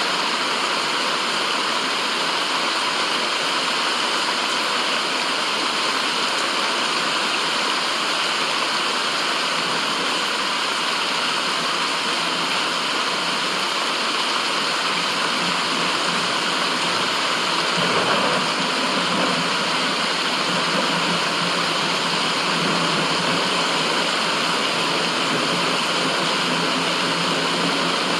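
Steady, even rushing noise of a white-noise track, sounding like a waterfall or stream, with a brief swell about two-thirds of the way through.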